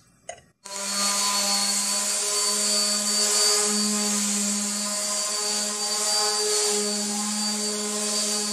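Electric random orbital sander with 220-grit paper running steadily against a painted cabinet panel, starting about half a second in with a steady motor hum and a hiss of abrasive on the surface. It is a light scuff-sanding between coats of polycrylic finish.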